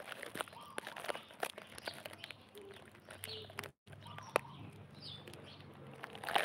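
Birds chirping in short, scattered calls over faint outdoor background, with a few light clicks; the sound drops out completely for a moment a little past halfway.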